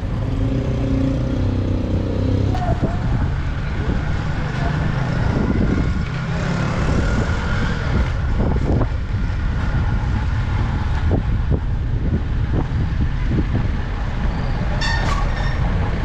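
Motorcycle riding through city traffic: a steady rumble of engine, road and wind noise, with a short high-pitched tone, such as a horn, near the end.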